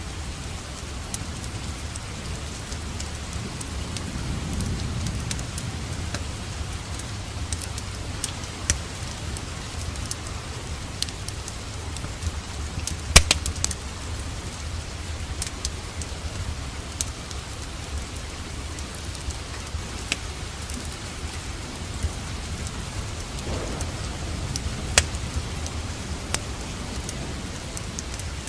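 Steady rain with a wood fire crackling: scattered sharp pops over the even hiss, the loudest about halfway through.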